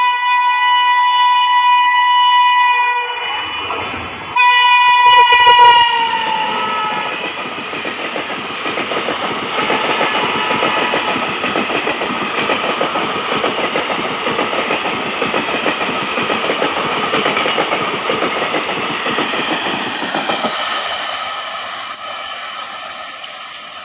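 Indian Railways express train hauled by a WAP-7 electric locomotive running through a station at speed. The locomotive's horn sounds in two long blasts and drops in pitch as it passes, about six seconds in. Then the coaches go by with a steady roar and rail clatter that fades near the end.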